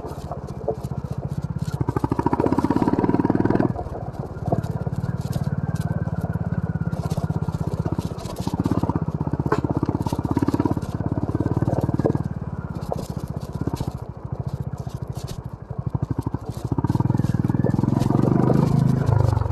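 A 2022 Honda CB350 RS's air-cooled single-cylinder engine pulling at low speed off-road, the throttle opening and closing. It is louder for a couple of seconds about two seconds in, again around the middle, and near the end, and drops back between, with scattered knocks and rattles from the bike over rough ground.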